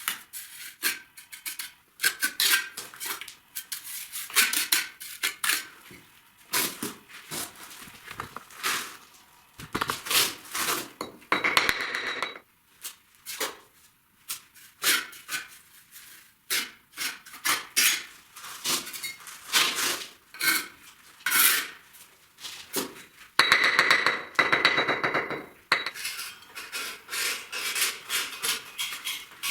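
Bricklaying: a mason's trowel clinking and tapping against bricks and scraping clay mortar, many short sharp knocks with two longer scrapes, about a third of the way in and again past the three-quarter mark.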